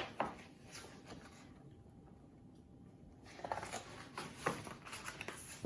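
Faint rustling and small taps from a book's pages being handled and turned. There is one click at the start, a quiet spell in the middle, then a run of light rustles and clicks.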